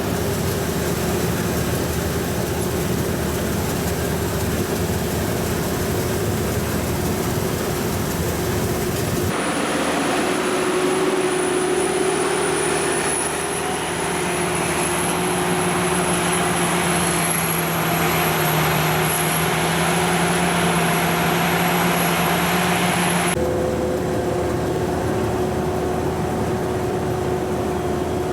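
Sakpattana KM-D#1 rice combine harvester running steadily while harvesting, its engine and threshing machinery giving a constant drone. About nine seconds in the sound changes abruptly and a thin high whine appears, then it switches back about fourteen seconds later.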